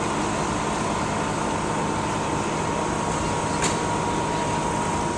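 Steady mechanical hum with a faint held whine over it, and one short tick about three and a half seconds in.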